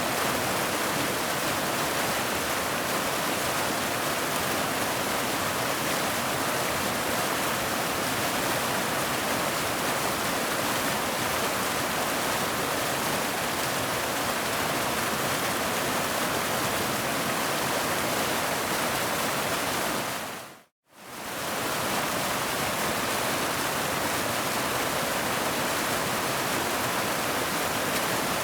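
Waterfall: a steady, even rush of falling water. About twenty seconds in it fades out to silence for a moment and comes straight back, as at a loop join.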